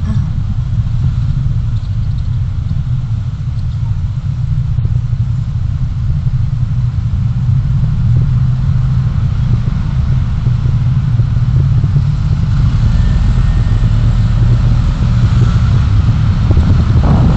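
Steady low rumble of engine and road noise from a moving vehicle, growing slightly louder over the second half.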